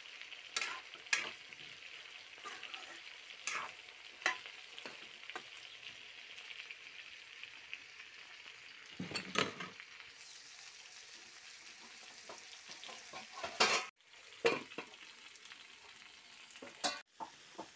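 Chicken and bottle gourd pieces sizzling in a metal kadai while a metal spatula stirs them, scraping and clinking against the pan every second or so. The sizzle fades about ten seconds in; the loudest scrape comes around nine seconds, with a few more clatters near the end.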